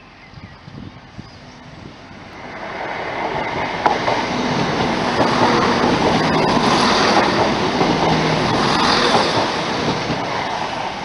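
Passenger train passing close by: a rush of wheel and rail noise builds about two seconds in, stays loud for several seconds with a sharp click early in the pass, and begins to fade near the end.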